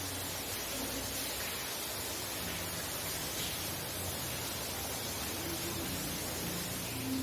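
Heavy rain falling, heard from inside a house: a steady, even hiss.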